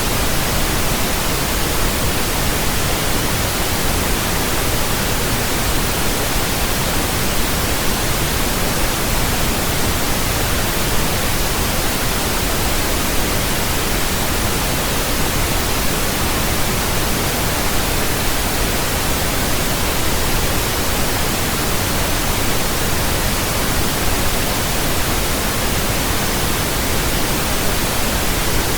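Steady pink noise: an even, unchanging hiss spread across all pitches, with more weight in the lows than white noise.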